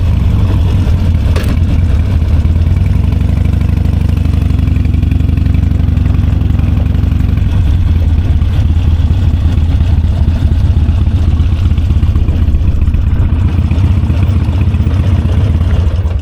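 Large motorcycle engine running steadily at idle, a low even rumble with no revving.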